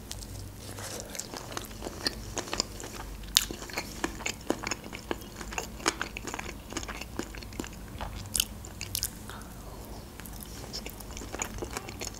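Close-miked chewing of sushi rolls: many small, sharp mouth clicks and smacks at an irregular pace.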